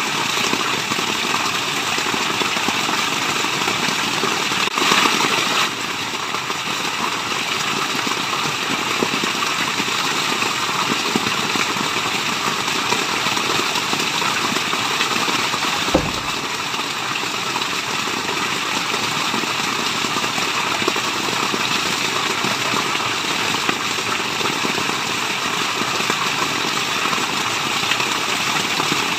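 Waterfall white noise: steady, even rushing of falling water, briefly louder about five seconds in, with a single low thump about sixteen seconds in.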